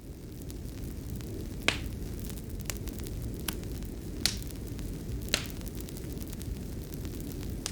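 Fireplace fire burning: a steady low rumble of flames with sharp, irregular crackles and pops about once a second.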